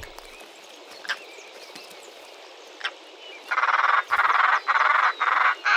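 European roller giving a quick run of about five harsh, rasping calls, starting about three and a half seconds in, over a faint steady hiss.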